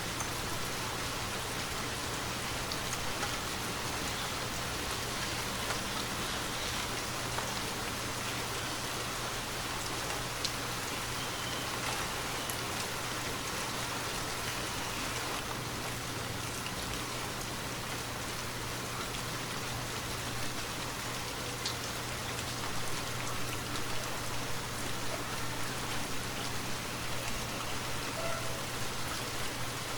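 Steady rainfall, a continuous hiss with scattered individual drop hits.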